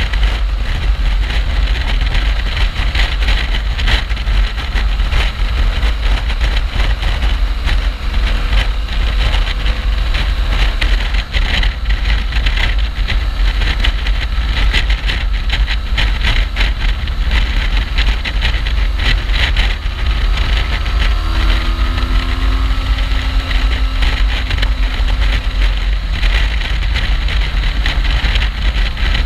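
BMW R1200GS flat-twin (boxer) engine running while riding, under heavy wind rumble on the microphone. The engine pitch glides up and down a few times in the second half.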